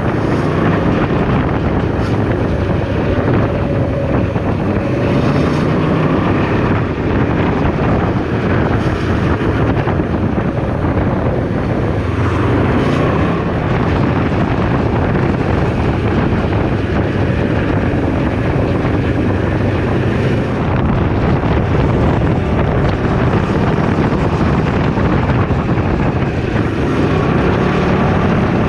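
Wind buffeting the microphone while riding a Can-Am Ryker 600 three-wheeled motorcycle at road speed, its engine running underneath with a pitch that drifts up and down.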